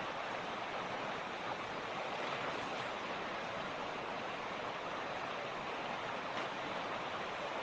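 Creek water rushing and splashing over rocks in a steady, unbroken flow.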